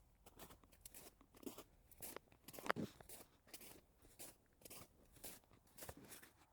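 Footsteps crunching on frozen ground: a faint, steady run of short crunches, several each second, with one louder step near the middle.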